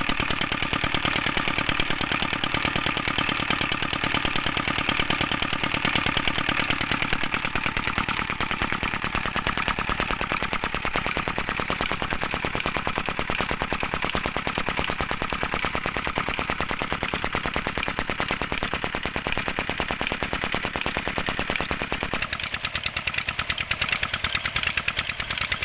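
16 horsepower single-cylinder Petter-type diesel engine running slowly under load, a fast, even chain of exhaust knocks, driving a tube-well water pump.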